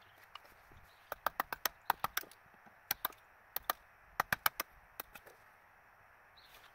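Hammer tapping a chisel into wood: sharp knocks in quick runs of two to four.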